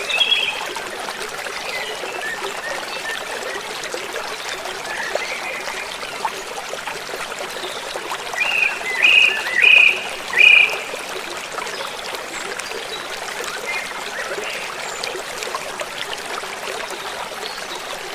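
Gentle river flowing: a steady rush and trickle of water. A bird calls in a quick run of about four notes between about eight and eleven seconds in, the loudest sounds here, with a few fainter calls elsewhere.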